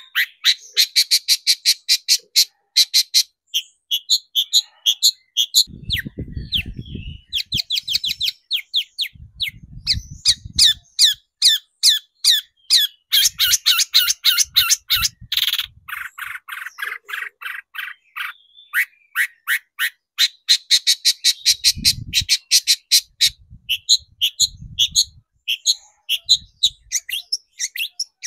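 Long-tailed shrike (cendet) singing loudly: a fast, harsh chattering string of rapid repeated sharp notes, broken by a few short pauses.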